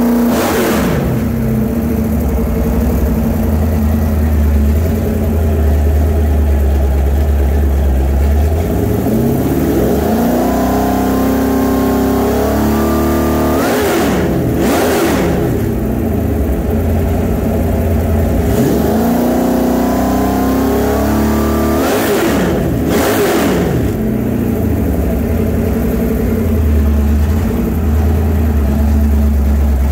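Freshly built 347 Ford stroker V8 with roller cam and Holley Sniper fuel injection, running on a test stand: it falls from a rev back to idle, then twice is brought up slowly and blipped sharply before dropping back to a steady idle. Timing is set and the injection dialed in, and it runs great.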